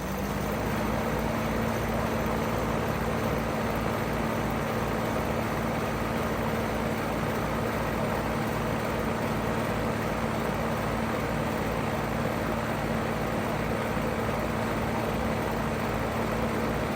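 Outdoor unit of a 2009 five-ton Payne PH13 heat pump starting up in heat mode. A steady hum comes in within the first second, rising slightly in pitch as it settles, with a steady rush and a low pulsing under it, and then runs evenly.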